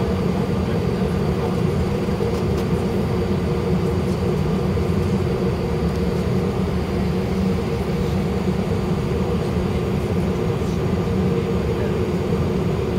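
Steady engine hum and rumble of an Airbus A319 heard from inside the cabin, with a few steady tones over it and no change in power.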